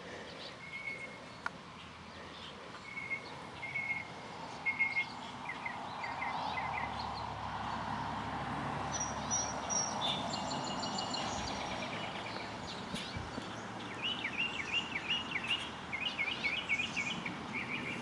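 Several birds singing: repeated whistled notes early on and quick rising-and-falling chirp series near the end. A vehicle passing on a nearby road swells and fades in the middle.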